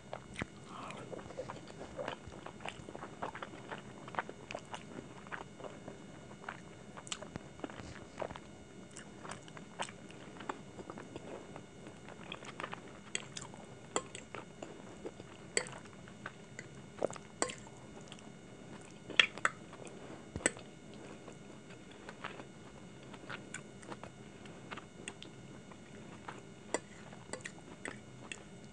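Close-miked chewing and wet mouth sounds of a person eating saucy chicken Manchurian and Hakka noodles, with many short sharp clicks scattered throughout, the loudest a little past the middle.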